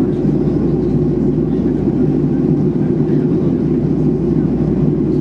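Steady cabin drone of a Boeing 737-800 in flight, heard from a rear window seat: a constant low rumble of engine and airflow noise with no change in level.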